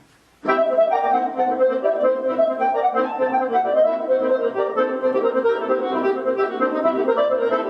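Accordion playing forró music, starting suddenly about half a second in.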